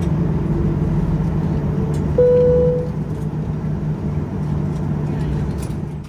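Steady cabin drone of a Boeing 737-900ER on the ground after landing: engine and air-system hum. About two seconds in, a short single tone sounds for under a second. The sound cuts off abruptly at the end.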